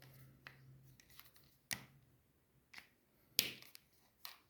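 Five light, sharp taps and clicks, spaced irregularly, the loudest about three and a half seconds in: a colouring tool dabbed on paper.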